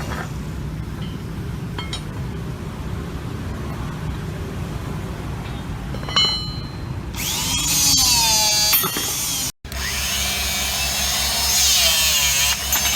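Electric motor of a rebar machine running with a steady, pulsing low hum. About seven seconds in, a loud high-pitched grinding whine with a wavering pitch joins it. It cuts out for a moment a little past halfway, then carries on.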